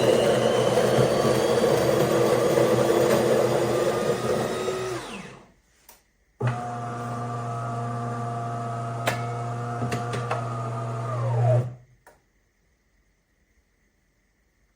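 Built-in burr grinder of a De'Longhi Magnifica Start bean-to-cup machine grinding coffee beans for about five seconds, then winding down. After a short pause a lower, steadier motor hum from the machine runs for about five seconds and drops in pitch as it stops.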